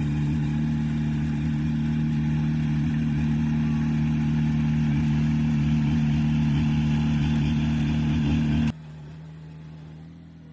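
Diesel engine of heavy construction machinery running steadily with a strong low hum. About eight and a half seconds in it drops suddenly to a much quieter engine sound.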